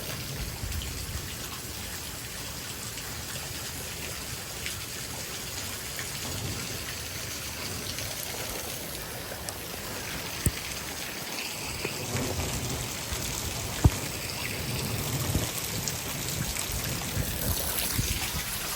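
Heavy thunderstorm downpour, rain pouring steadily. Two sharp ticks stand out, about ten and fourteen seconds in.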